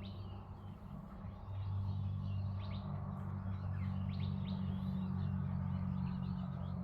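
Scattered short bird chirps over a steady low hum that swells about a second and a half in.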